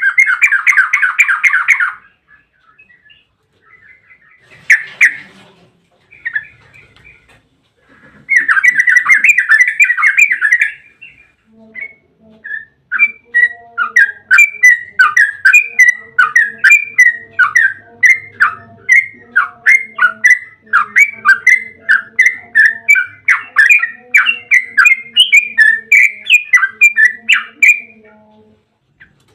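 Yellow-vented bulbul singing: a short bubbly phrase at the start and another about eight seconds in, then a long, rapid run of chattering notes from about thirteen seconds in until near the end.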